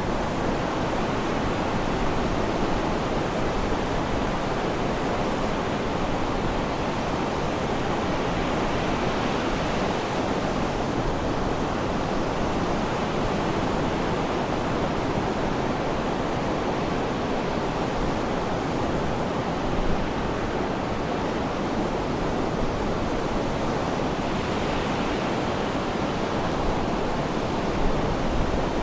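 Sea surf washing in a steady, even hiss of waves, with no clear rise and fall of single breakers.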